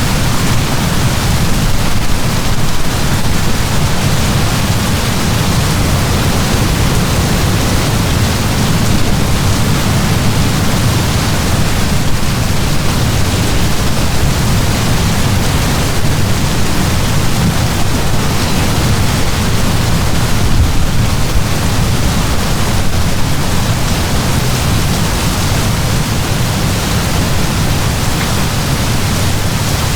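Heavy rain downpour: a steady, dense hiss with a deep low rumble underneath that does not let up.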